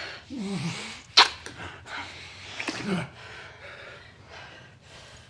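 Two people kissing and breathing heavily, with short falling moans and one sharp, loud breathy gasp about a second in.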